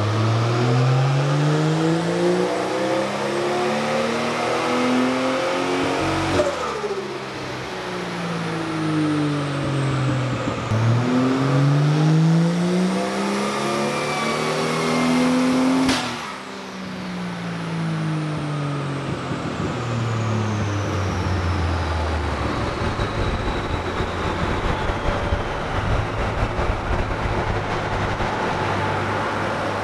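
Nissan 180SX's turbocharged RB30 inline-six on a chassis dyno making two full-throttle pulls. Each time the engine note rises for about five to six seconds, then a sharp crack as the throttle shuts, and the revs fall away. In the last several seconds it runs at a lower, steadier note.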